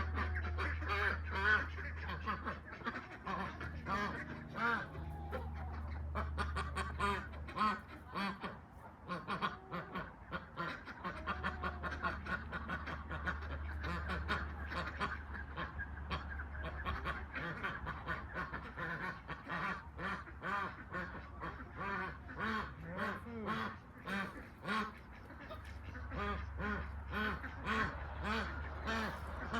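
A flock of domestic ducks quacking continuously, many short calls overlapping in quick runs. A low rumble comes and goes underneath.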